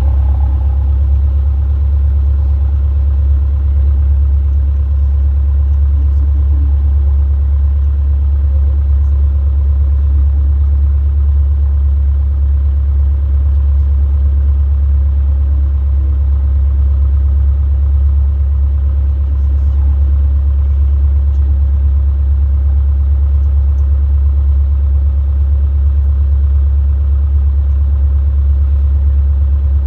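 Robin DR400 light aircraft's piston engine and propeller running steadily at low power while taxiing, a deep unbroken drone.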